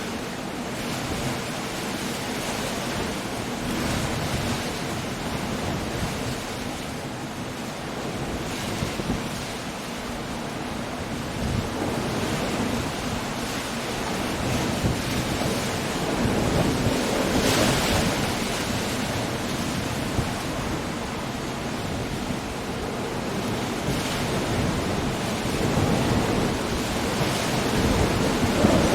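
Coastal storm: surf breaking on a rocky shore under wind and rain, a steady roar of noise that swells and eases with each wave, with one louder surge a little past halfway.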